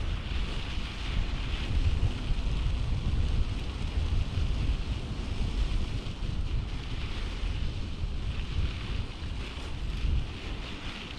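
Wind buffeting the microphone during a bicycle ride: a gusty low rumble that swells and eases, over a steady hiss.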